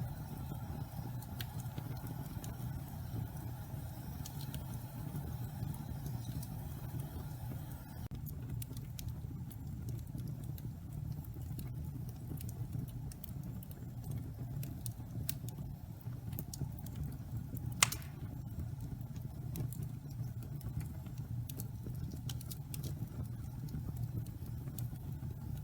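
Wood fire burning in a fireplace, damp pine logs: a steady low rumble of flames with scattered crackles and one sharp, louder pop about eighteen seconds in.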